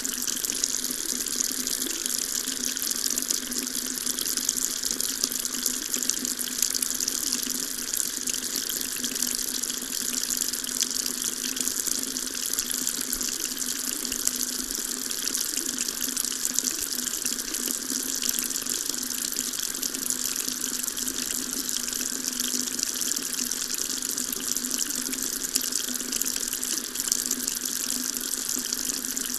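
Water tap running steadily, a constant stream splashing into a sink with an even hiss and no change in flow.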